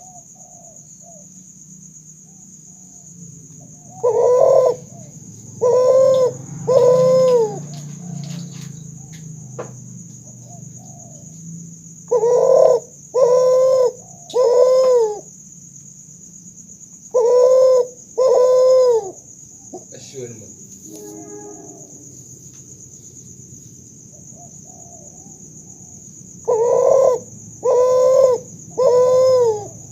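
Kuter, a hybrid of spotted dove and Barbary dove, cooing in repeated phrases of two or three loud notes, each note swelling up in pitch and falling away, with pauses of several seconds between phrases.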